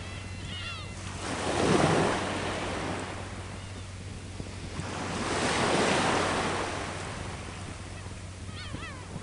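Sea waves washing onto the shore, two swells about four seconds apart. A few short bird calls come near the start and again near the end.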